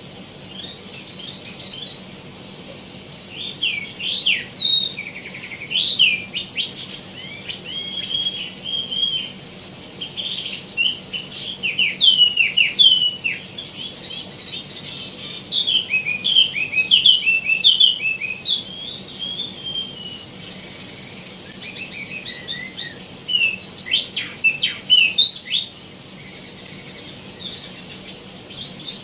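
Wambi mini (tieumi) songbird singing in bursts of quick, high chirps and short whistled notes, with brief pauses between phrases.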